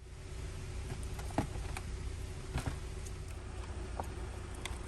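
A few light clicks and taps of parts being handled during steering wheel reassembly, over a steady low hum.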